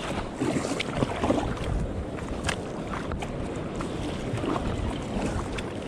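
Sea kayak moving on the water, with wind buffeting the microphone and water splashing around the hull. Several sharp clicks sound at intervals, from a chest-worn camera mount rattling without a damper.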